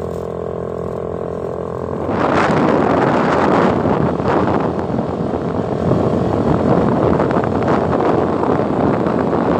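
A vehicle engine running with a steady hum, drowned out about two seconds in by loud rushing noise that swells and falls.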